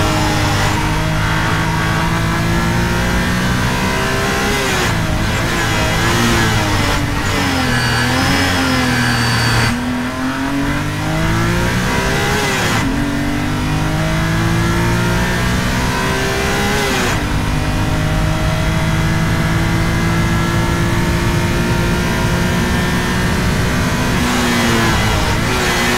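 Supercharged BMW E46 M3's S54 straight-six engine driven hard on track. The revs climb and drop sharply twice around the middle as it shifts up, hold a long steady pull, then fall off near the end.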